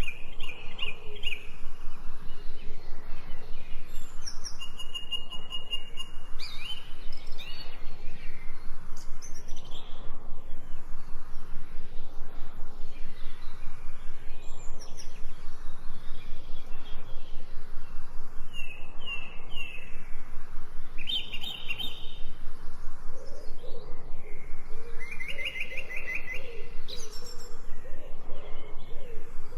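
Several songbirds singing short chirps and trills, one after another, over a steady hiss of a small stream. A fast, even pulsing runs underneath throughout.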